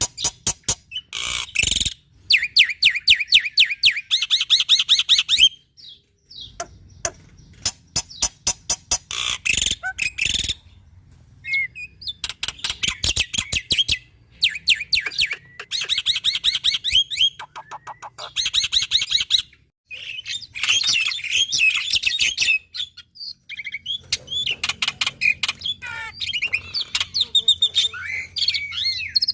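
Black-winged starling (jalak putih) singing vigorously: bursts of fast rattling trills and harsh chattering mixed with whistled notes, repeated phrase after phrase with short pauses between.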